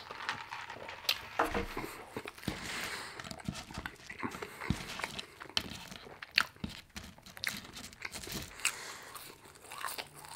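Close-miked eating sounds of a person chewing french fries: irregular crunches, wet mouth smacks and clicks, with finger licking.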